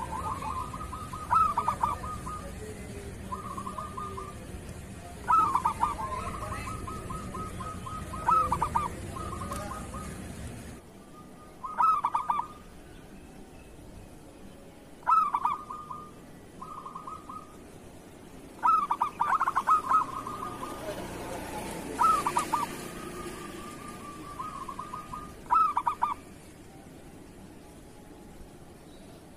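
Zebra doves (perkutut) cooing: repeated short phrases of rapid rolling, trilled coos, a loud accented call every three seconds or so with softer purring notes between.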